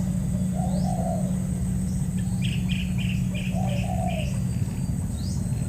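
Spotted doves cooing, two low coo phrases about three seconds apart. Between them a small bird gives a quick run of about six chirps, over a steady low hum.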